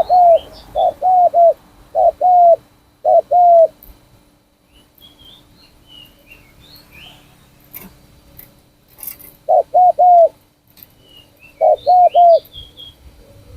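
Spotted dove cooing in short phrases of deep, rounded coo notes: a run of them at the start, two pairs soon after, then a pause and two groups of three near the end. Small birds chirp faintly and higher in the background.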